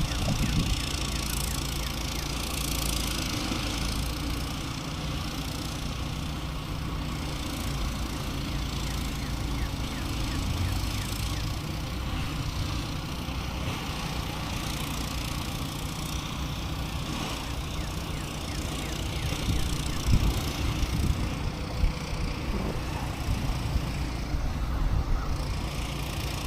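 A steady low engine drone, with a few louder low thumps in the last few seconds.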